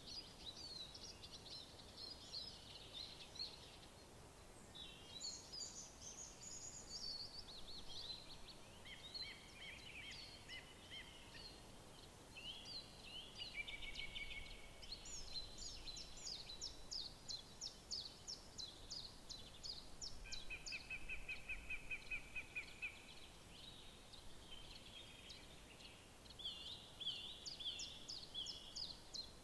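Several songbirds singing at once in overlapping phrases and chirps, with fast repeated trills in the second half, over a faint steady hiss.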